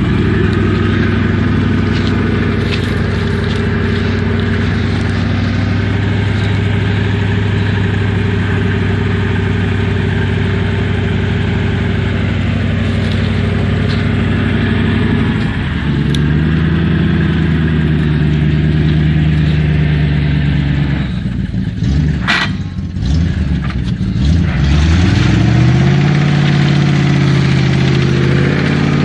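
GAZ-66 truck engine running steadily, its pitch stepping up about halfway through, then dropping and climbing again with the revs a few seconds later before holding at the higher speed.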